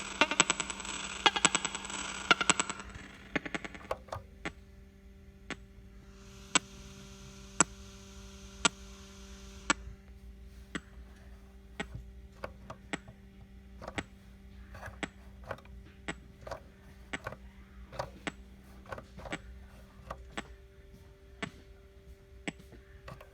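DOD TEC 4X guitar preamp/effects processor's output noise: a dense, buzzy hum for the first few seconds, then a steadier low hum with sharp clicks about once a second and a few seconds of hiss a quarter of the way in.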